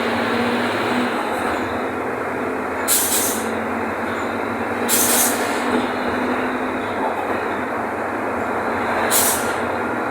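Mercedes-Benz OF-1519 bus's BlueTec 5 diesel engine running steadily while the bus drives, with three short hisses of air from the bus's air system about 3, 5 and 9 seconds in.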